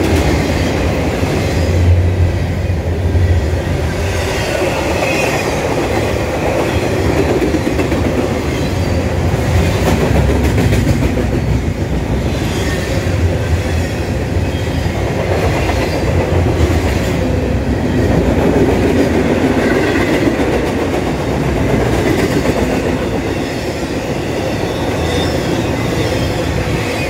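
Double-stack intermodal well cars of a freight train rolling past, a steady rumble with the clickety-clack of wheels over the rail joints. The sound eases a little near the end as the last car goes by.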